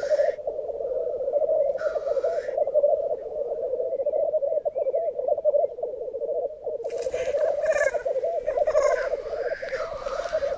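Black grouse males displaying at a lek: a continuous bubbling, cooing chorus, with loud hissing sneeze calls at the start and about two seconds in, and several more hisses from about seven seconds in.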